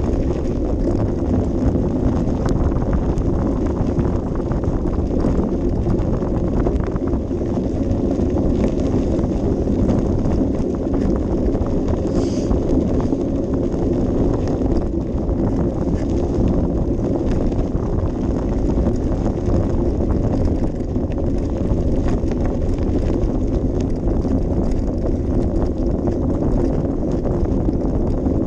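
Bicycle riding along a rough path, heard through a bike-mounted action camera: a continuous low rumble with fine rattling, and wind on the microphone.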